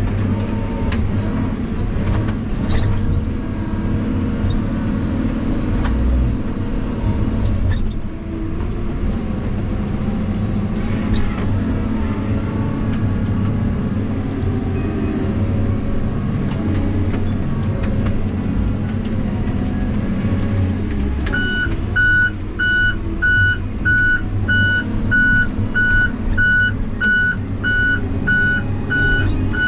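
Heavy diesel vehicle engine running steadily at low revs. About two-thirds of the way through, a backup alarm starts beeping, roughly two beeps a second, as the machine reverses.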